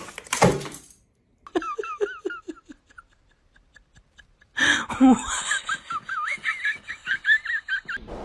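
A loud noisy burst about a second long, then people laughing in two bouts of pulsing, high-pitched laughter, the second starting near the middle and running to the end.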